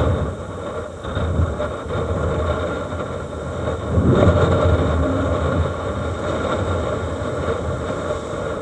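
Storm wind from a passing typhoon buffeting the microphone in a low, rumbling roar over a rough sea, rising and falling, with a stronger gust about four seconds in.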